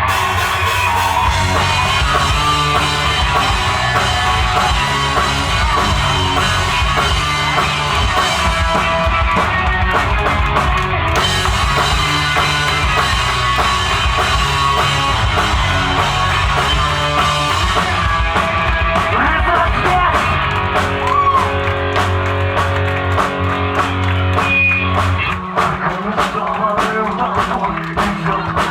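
Live alternative rock band playing: drum kit, guitars and bass, with singing. Near the end the deep bass drops away and sharp drum hits stand out.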